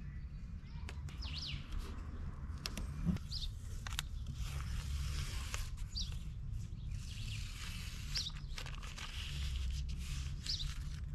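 A bird repeating one short, falling high chirp about every two seconds, over the papery rustle and rubbing of a vinyl decal and its backing sheet being smoothed by hand onto a car door.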